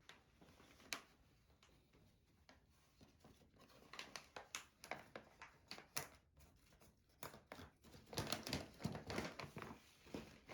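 Irregular crinkling and rustling with sharp little crackles, sparse at first, then busier from about halfway through.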